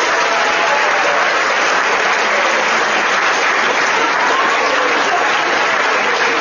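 A large audience applauding steadily, dense clapping in a hall.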